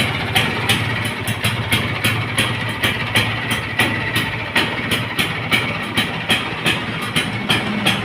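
Rebuilt Vespa scooter engine idling steadily, with a sharp regular tick about three times a second over its hum.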